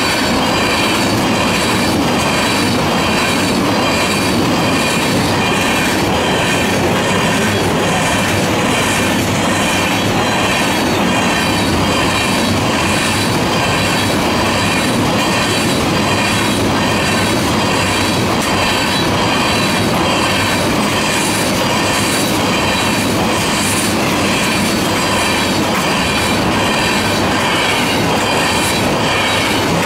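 CSX freight train of tank cars rolling steadily past at close range, loud and continuous, steel wheels clicking over the rail joints.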